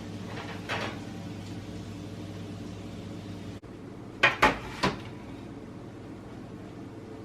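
Kitchenware clattering: three quick clinks of dishes or cookware a little over four seconds in, with a faint clink near the start, over a steady low hum.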